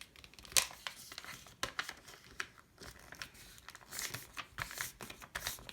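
Sheet of paper rustling and crinkling as a paper airplane is flipped over and folded and creased by hand, in scattered short crackles.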